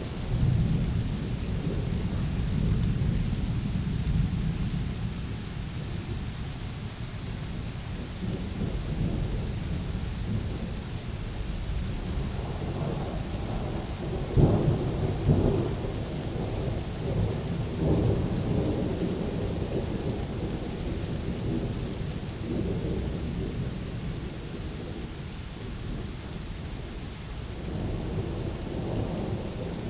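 Thunder rumbling over steady rain, with a long low roll in the first few seconds and two sharper, louder peals about halfway through.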